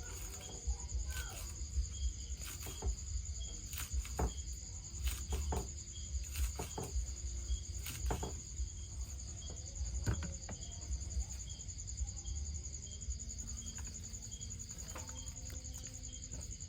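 Steady high-pitched trilling of insects, with irregular sharp clicks and knocks over the first twelve seconds or so.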